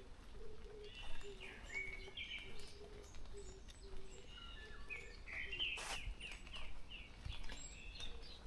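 Several forest birds singing and calling together in a morning chorus, mixed chirps and whistled phrases, with a low note repeated about twice a second through the first half. A single sharp click about six seconds in.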